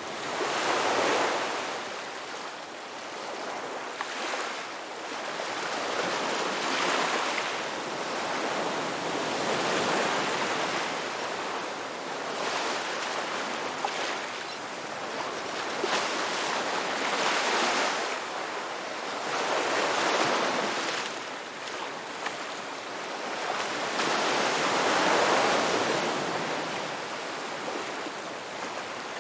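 Ocean waves breaking and washing up the beach, the surf swelling and falling away every few seconds.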